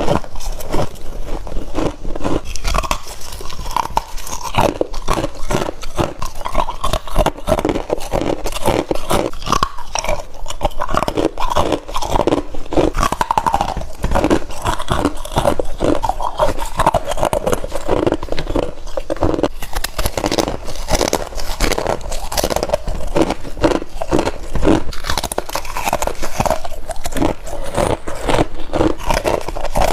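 Close-miked bites into frost, a dense run of crisp, irregular crunches that keeps going without a break.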